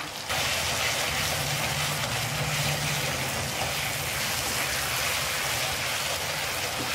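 Onions, tomatoes and a green chili sizzling steadily in hot oil in a wok as the tomatoes cook down, cutting in suddenly just after the start. A low steady hum runs underneath.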